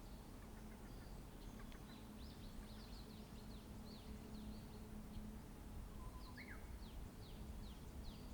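Wild birds calling with rapid series of short, high, downward-slurred chirps, a few lower notes about three-quarters of the way through, over a faint steady low hum and rumble of road traffic.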